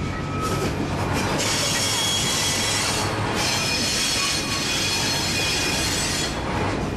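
Excursion train rolling on the track with a steady low rumble, its steel wheels squealing against the rails in several high ringing tones from about a second and a half in until near the end, briefly easing around three seconds in. Squeal like this is typical of wheels grinding through a curve.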